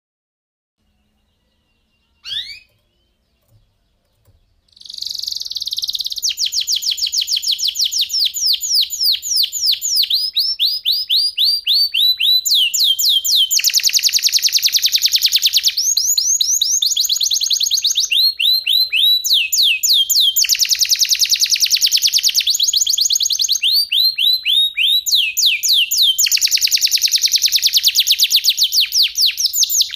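Domestic canary singing: after one short rising chirp, a loud, continuous song of fast trills of repeated high notes, breaking three times into dense rolling stretches.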